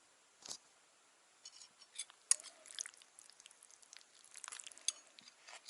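Scattered quiet clicks, taps and crackling, busiest in the middle, with a few sharper ticks: small objects handled at a table set for eating.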